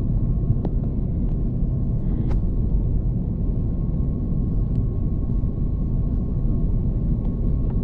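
Steady low rumble of an Airbus A330-300's passenger cabin in flight: engine and airflow noise, with a faint steady whine above it and a few faint ticks.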